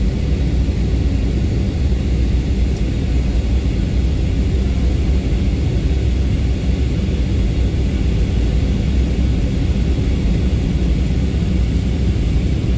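Steady low rumble, like a running engine or aircraft noise, with a faint hiss above it and no change throughout.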